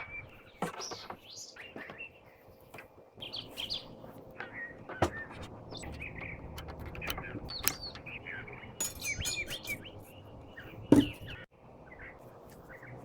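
Small birds chirping and tweeting repeatedly, with a couple of sharp clicks and one louder knock near the end.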